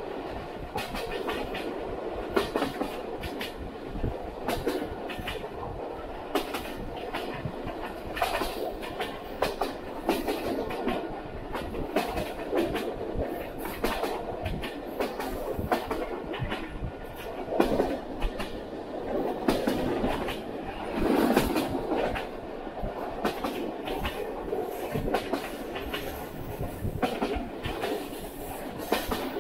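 Passenger train running along the line: a steady rumble of the carriage with the wheels clicking irregularly over rail joints, swelling louder twice about two-thirds of the way through.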